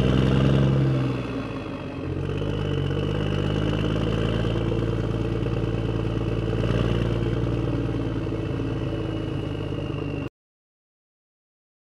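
Excavator engine running steadily, a low drone with a brief dip and change of pitch about two seconds in. It cuts off abruptly about ten seconds in.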